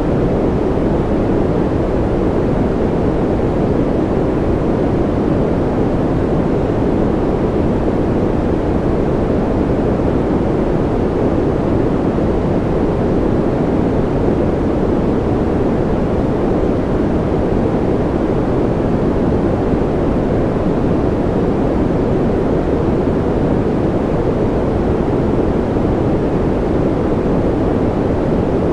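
Steady white noise for baby sleep: an unchanging, deep rushing hiss, heaviest in the low-mids with little treble.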